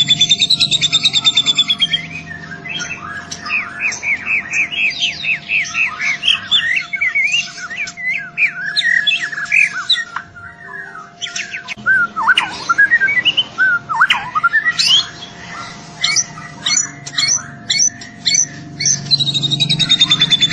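A young white-rumped shama singing in full song. A fast buzzing trill opens the song and returns near the end; between them runs a long varied sequence of quick descending chirps, sweeping whistles and sharp notes. A faint steady hum lies underneath.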